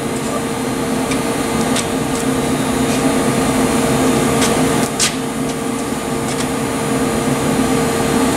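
Steady machine hum with a low, even buzzing tone, and a few light clicks and taps on top, the sharpest about five seconds in.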